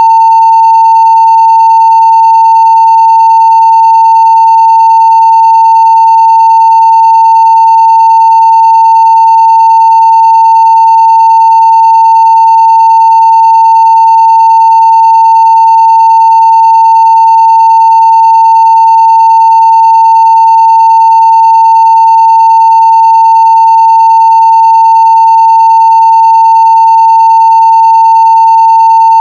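A 900 Hz sine-wave test tone at full scale (0 dB), held steady and unbroken.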